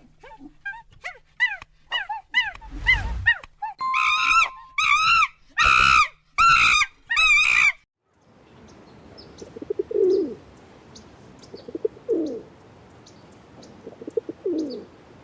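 Birds calling: a quick run of short chirps, then five louder, ringing calls with strong overtones, stopping about eight seconds in. After that comes a steady hiss with three low, falling calls about two seconds apart.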